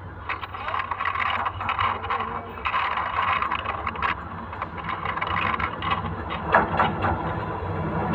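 A locomotive-hauled train approaching along the track, heard from low down beside the rails: a rumble that builds and grows louder toward the end, with irregular scraping and rattling noise and a few sharp clicks in the middle.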